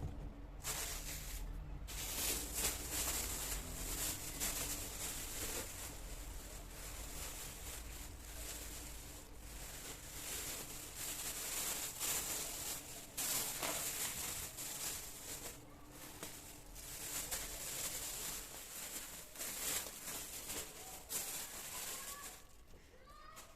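Groceries being handled and put away in a kitchen: continuous rustling with many small light knocks and clicks, dipping briefly a few times.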